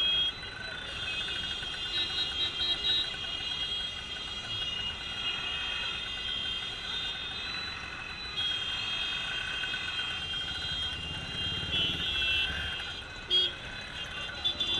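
Steady road vehicle noise, without speech.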